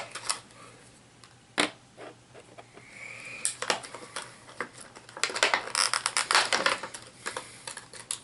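Small plastic miniatures and their packaging being handled: a sharp click about a second and a half in, a brief faint squeak near three seconds, then a run of quick clicks and rustles.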